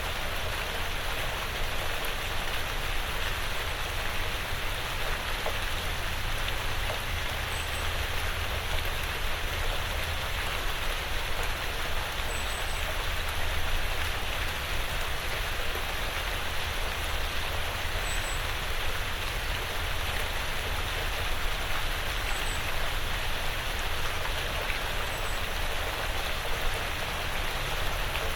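Steady rain falling on a porch roof and the surrounding woods, an even, unbroken patter. A faint, high double chirp comes through every few seconds.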